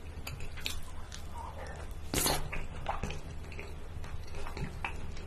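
Close-miked wet mouth sounds of eating king crab meat in cheese sauce: scattered soft squishes and smacking clicks while chewing, with one louder wet burst about two seconds in.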